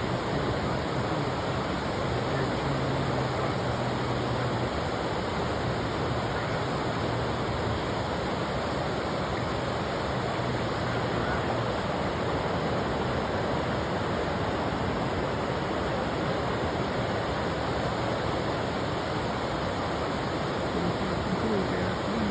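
Steady rushing of a fast-flowing river, an even, unbroken wash of water noise.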